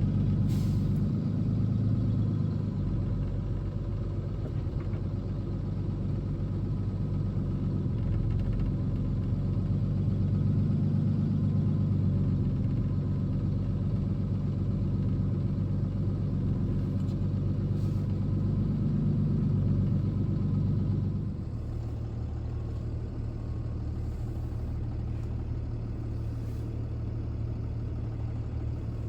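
Box truck's engine running on the move, its low rumble swelling and easing a few times, then settling to a quieter, steady idle about 21 seconds in.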